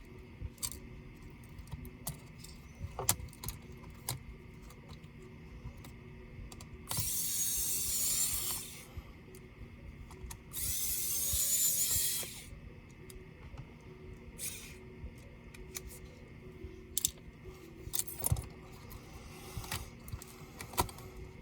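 Small electric screwdriver running in two bursts of about two seconds each, with light clicks and taps of tools and small metal parts around them.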